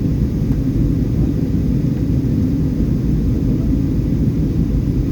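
Steady low rumble of a passenger aeroplane heard from inside the cabin: engine and airflow noise.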